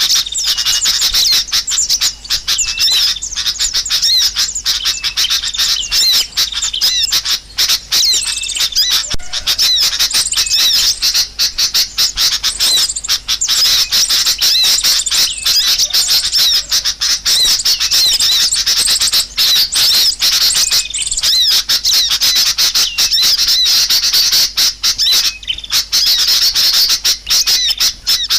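Small birds chattering densely, many rapid high chirps and squeaks overlapping without pause: a lure call used to draw small birds in.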